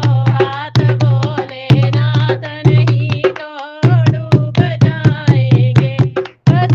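Hindi devotional bhajan to Shiva: a voice singing over a regular percussion beat and a deep sustained bass. A little past halfway the bass and drums drop out for under half a second, leaving only the voice warbling, then the beat returns.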